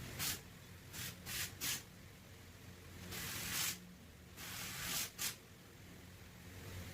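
Compressed air hissing from a pneumatic air gun in a series of bursts: several short blasts, then two longer ones of about half a second, over a steady low hum.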